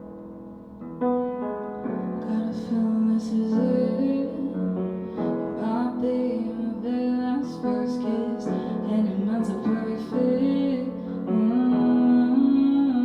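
Live piano-accompanied song: piano chords, joined about two seconds in by a woman singing.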